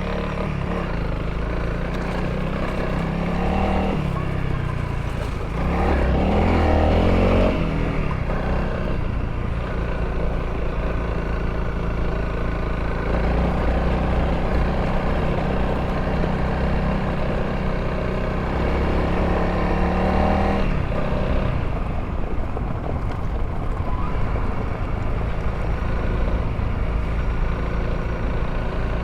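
Honda CRF300L's single-cylinder four-stroke engine running under way at trail speed, the revs rising and falling with the throttle, with a louder burst of throttle about six seconds in.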